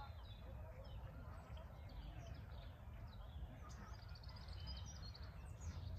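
Small birds chirping and singing, with many short, quick, falling chirps and a run of repeated high notes about four seconds in, over a steady low rumble.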